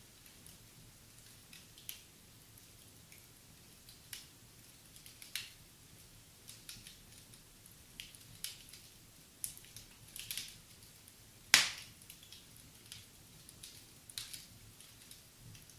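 Wood fire in a fireplace crackling, with irregular sharp pops and clicks and one louder pop about two-thirds of the way through.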